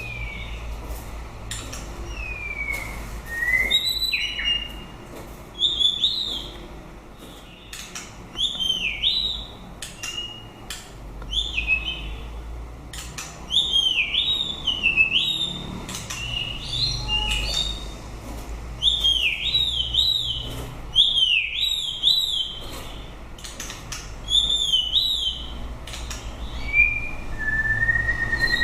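White-rumped shama singing: short phrases of swooping, whistled notes, repeated every second or two, with a few sharp clicks between them.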